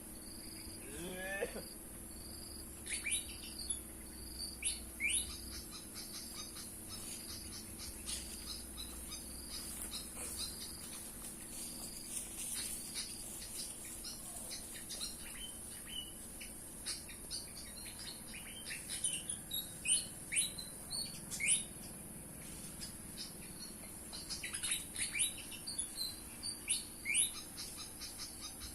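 Pied fantail calls: bursts of short, sharply falling chirps that come in several clusters, over a steady high insect drone.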